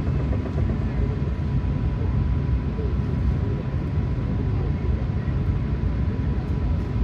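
Steady low rumble of an Airbus A380 heard from inside the passenger cabin on the ground before takeoff, with a faint, thin, steady whine above it.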